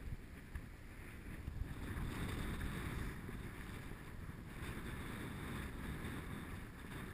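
Heavy storm surf breaking, with wind against the case, heard muffled and dull through a GoPro Hero 2's sealed waterproof housing. The rushing noise swells about two seconds in and stays up.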